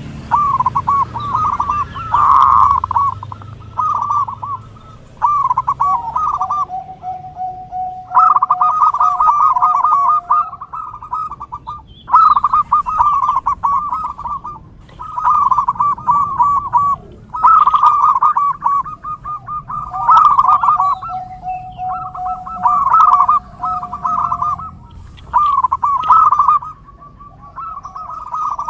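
Zebra dove (perkutut) cooing: repeated bouts of rapid, trilled coo phrases, each a second or two long with short gaps between. Twice a lower steady note is held for several seconds under the cooing.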